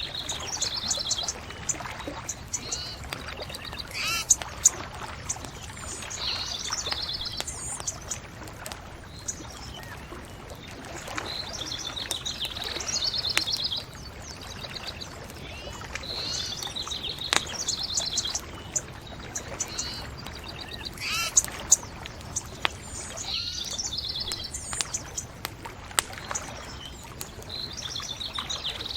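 A songbird repeats a short, high trilled phrase every four or five seconds over a low, steady background rush. A few sharp pops from a crackling bonfire cut through now and then.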